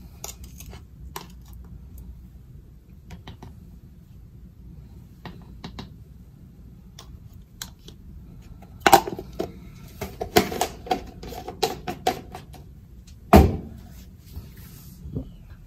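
Supplement container and scoop being handled: scattered light clicks, then a burst of clattering knocks about nine seconds in, and one loud knock near the end.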